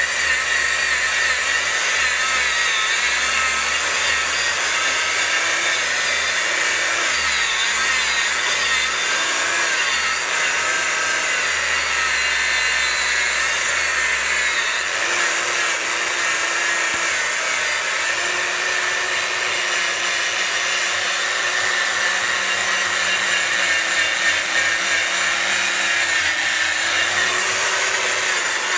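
Harbor Freight 11-amp angle grinder running steadily under load, grinding a coating off wooden deck boards with a continuous high whine and the rasp of the abrasive on the wood.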